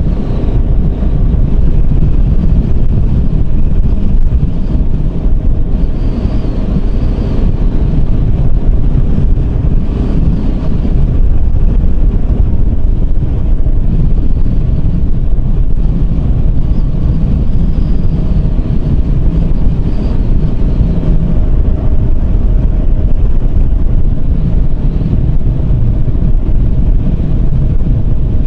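Yamaha Serow 250's single-cylinder four-stroke engine running at a steady cruise, with heavy wind noise on the microphone.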